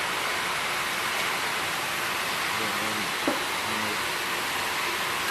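Steady hiss of background noise with one sharp click about three seconds in, from a valve stem seal being pulled off a 2GR-FE cylinder head with pliers.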